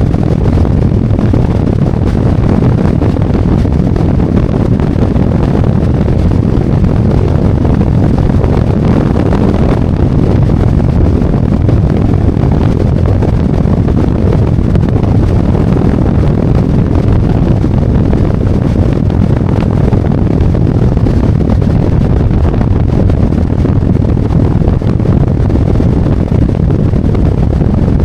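Harley-Davidson Road Glide's V-twin running steadily under way, mixed with wind rushing over the microphone: a loud, even low rumble that doesn't change.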